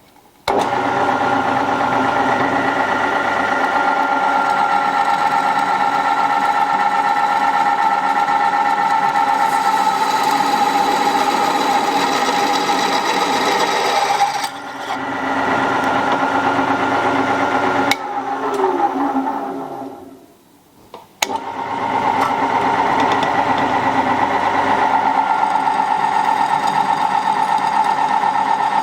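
Rebuilt Meddings MF4 drill press running with a steady electric motor hum, starting abruptly about half a second in. It dips briefly about 14 seconds in. About 18 seconds in it is switched off with a click and winds down in a falling whine to quiet, then starts up again about 21 seconds in.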